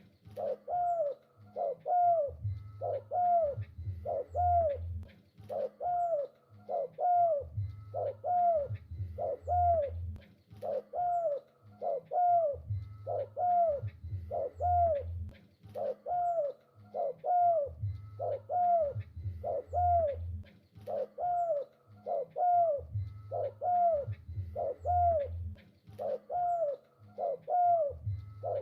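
Spotted dove cooing over and over in a steady series of short coos, a little over one a second. A low hum comes and goes underneath.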